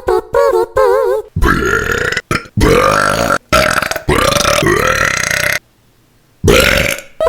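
A man's voice making mouth-and-throat sound effects: a quick warbling, wavering note at first, then a run of long, rough, belch-like throat sounds. After a short pause comes one loud burst near the end.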